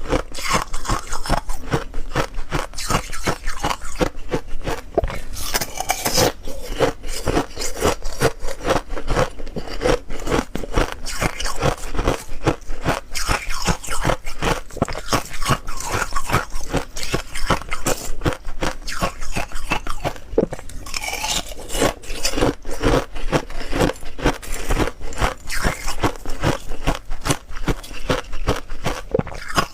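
A person biting and chewing ice: close, continuous crunching and cracking with many small crackles packed together, without let-up.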